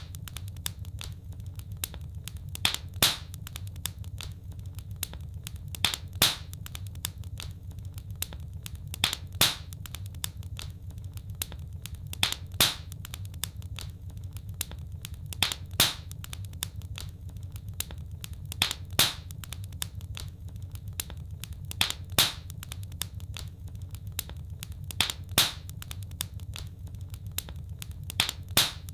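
Wood fire crackling in a fireplace: a steady low rumble of flames with constant small ticks, and a pair of louder pops about every three seconds.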